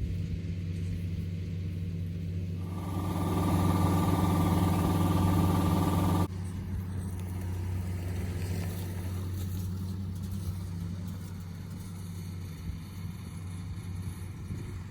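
Yanmar GC447V rice combine harvester running with a steady engine hum. From about three seconds in it grows louder, with a high whine added. About six seconds in it drops suddenly back to a lower hum.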